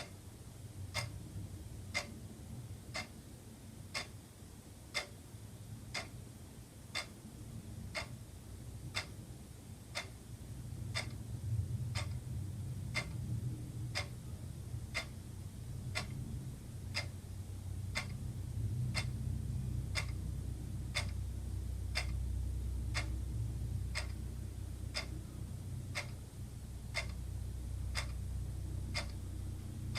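Wall clock ticking steadily, one sharp tick each second, over a low background rumble that swells about a third of the way in.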